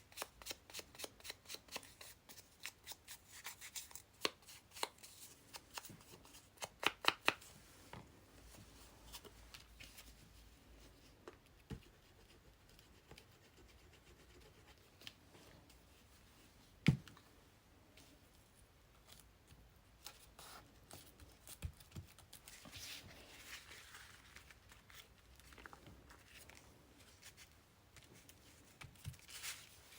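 Paper and craft materials being handled on a desk. A quick run of small clicks and taps comes in the first several seconds, a single sharp knock about halfway, and soft paper rustling later on.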